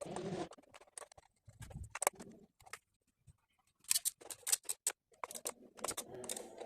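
Ignition coils and their small fixing screws being fitted back onto a Mercedes M111 engine: scattered light clicks and knocks of plastic and metal parts being handled, with a quick run of sharp clicks about four seconds in.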